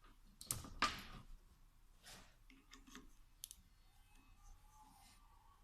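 A few light clicks and taps of tools and small parts being handled, the sharpest just under a second in, during disassembly of a diesel injection pump.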